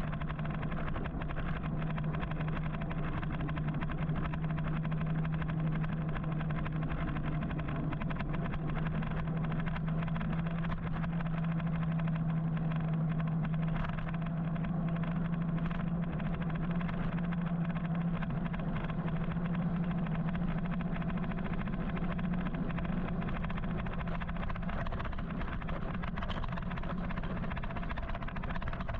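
Road noise from riding an electric motorcycle in city traffic: a steady low hum that rises slightly in pitch midway, over a continuous hiss of tyres, wind and passing traffic.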